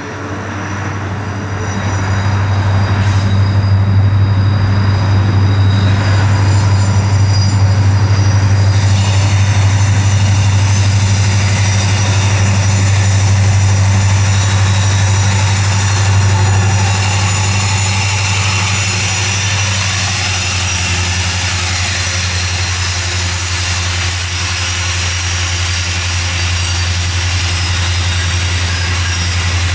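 Two diesel-electric locomotives hauling a loaded grain train across an elevated bridge: a loud, steady, deep engine drone that swells over the first couple of seconds and holds. In the second half the drone eases slightly as the grain wagons roll by.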